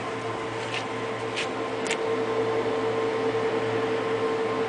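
Steady mechanical hum with a constant mid-pitched tone, and three faint short ticks in the first two seconds.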